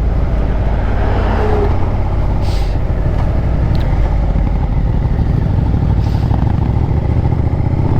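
650cc motorcycle engine running steadily while riding, with its low engine note and road noise holding an even level throughout.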